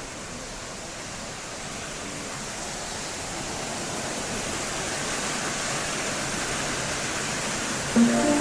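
Steady rush of water from the Nunobiki waterfall and its stream, growing gradually louder. Music with plucked notes starts near the end.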